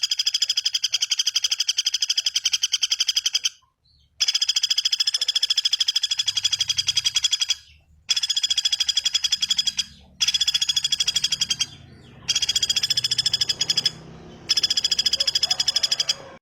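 Recorded songbird call used as masteran training audio: a rapid, evenly pulsed, high trill, repeated in five bursts with short gaps between them.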